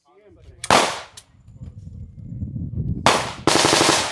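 Gunshots at a shooting range: a sharp shot about three-quarters of a second in, another about three seconds in, then a rapid half-second string of fire near the end, with a low rumble between the shots.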